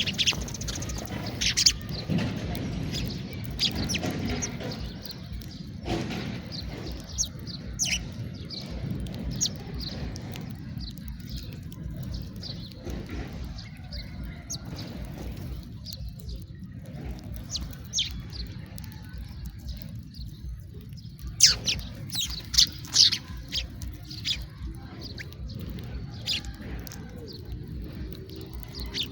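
House sparrows chirping: scattered short chirps, busiest and loudest about three-quarters of the way through, over a steady low background rumble.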